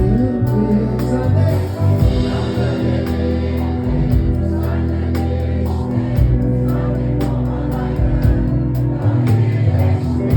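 Live rock band playing with a steady drum beat, heavy bass and guitar, with voices singing over it.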